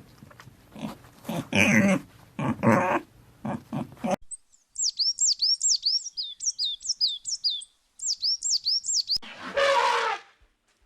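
A dog barking in a string of short barks, followed by a small bird chirping rapidly in high sweeping notes, several a second; one longer animal call comes near the end.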